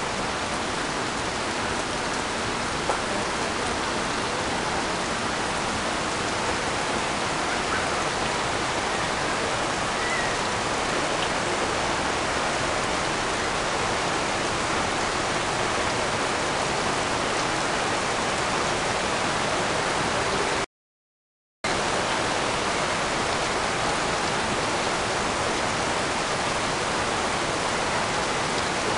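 Heavy rain falling with a steady hiss. The sound cuts out completely for about a second around two-thirds of the way through, then resumes.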